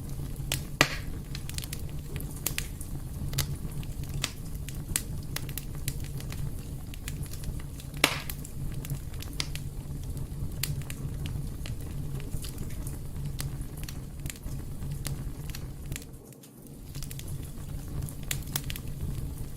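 Fireplace fire crackling steadily over a low rumbling hiss, with scattered sharp pops. The loudest pops come about a second in and about eight seconds in, and the sound dips briefly near the end.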